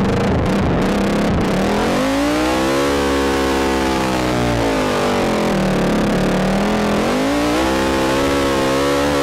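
ATV engine revving under a rider's throttle, its pitch climbing about two seconds in, sagging in the middle and climbing again near the end.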